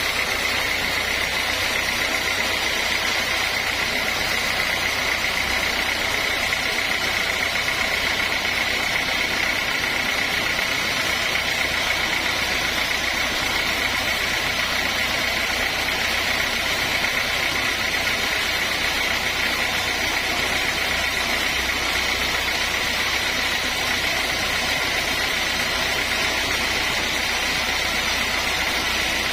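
Sawmill machinery running steadily, with a constant high whine over a low hum.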